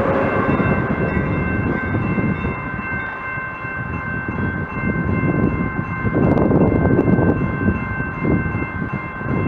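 Train rolling past with a heavy rumble that swells about six seconds in, over several steady high tones held throughout.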